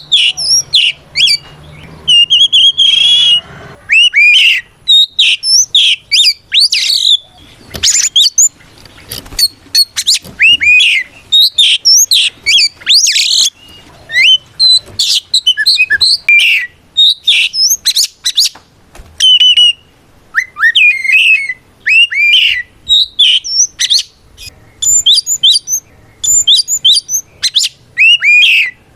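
Oriental magpie-robin (kacer) singing a loud, continuous song of rapid, varied short whistles and chirps, many sliding up or down in pitch. This is the bird's full challenging song, given to call out a rival.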